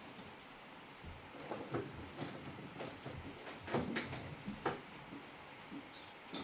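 A series of irregular knocks and clicks, busiest around the middle.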